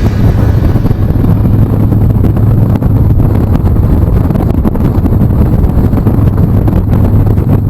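Motorcycle engine running steadily while riding, mixed with rough wind noise on the microphone.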